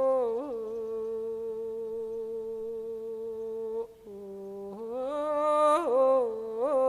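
A man's voice chanting a Lao soul-calling (su khwan) blessing, holding one long steady note for about three seconds, breaking off briefly about four seconds in, then resuming with wavering, ornamented turns of pitch.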